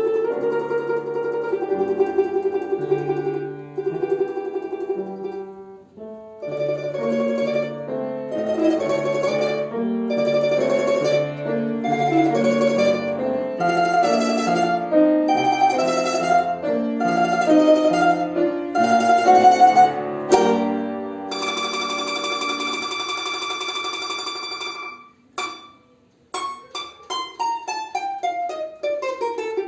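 Russian folk song arrangement played on a plucked string instrument, its melody in quickly repeated notes over lower accompanying notes. About three-quarters through a long chord is held, then a quick run of falling notes comes near the end.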